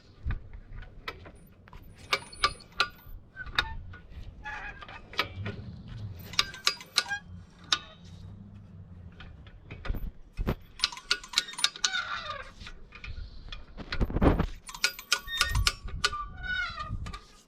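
A come-along ratchet puller being cranked under tension, clicking in several bursts of rapid ratchet clicks with short pauses between, as it draws tight on a bent steel pipe.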